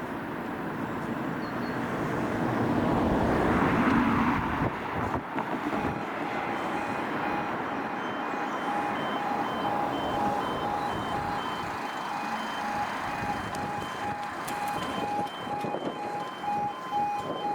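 A road vehicle passes, and then, about six seconds in, the level crossing's electronic audible alarms start up. Several rapidly pulsing warning tones at different pitches overlap, out of step with each other, as the crossing begins its warning sequence before the barriers lower.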